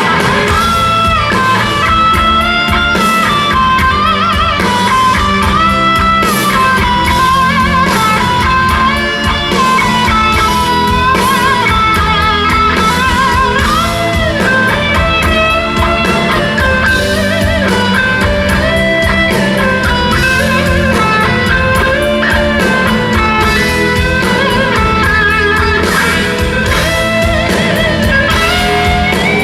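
Rock band playing live: an electric guitar carries a lead line with bends and vibrato over bass and drums, and no singing.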